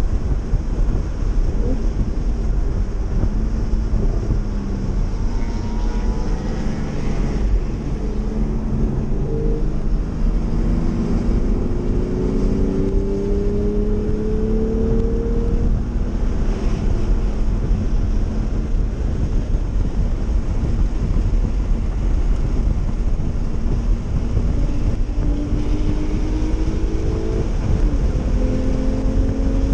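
Porsche 911 engine heard from inside the cabin on track, under a steady rumble of road and wind noise. Its note climbs in pitch as the car accelerates from about six seconds in to about sixteen seconds in, and climbs again near the end.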